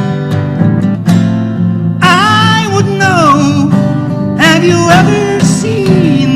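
Acoustic guitar strumming the song's chords. About two seconds in, a melody line that bends in pitch joins over the strumming, in two phrases.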